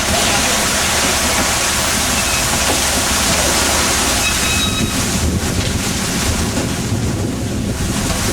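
Fishing boat under way at sea: a steady engine drone under wind buffeting the microphone and the rush of water along the hull.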